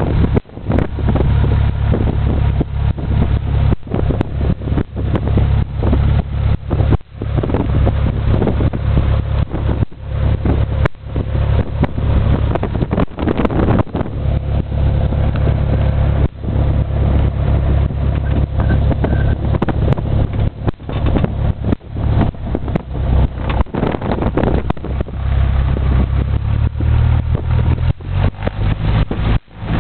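Steady low engine drone of a light aircraft, heard with rough wind noise buffeting the microphone and many brief dips in level.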